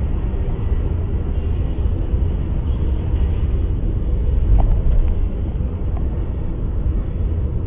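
Volkswagen Caddy Mk1 pickup running: a steady low rumble.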